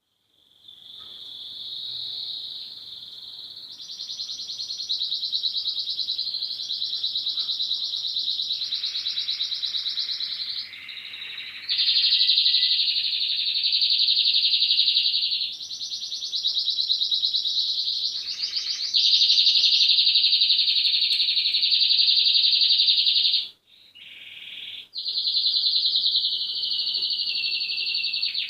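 Male domestic canaries singing: long, near-unbroken song of rolling trills and warbles. The song breaks off briefly about 23 seconds in, then resumes.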